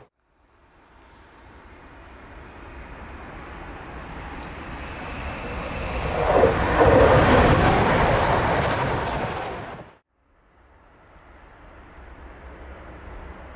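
A train approaching and passing on the line: its running noise swells over several seconds, is loudest about seven seconds in, and cuts off abruptly about ten seconds in. Another train's noise then begins to build faintly.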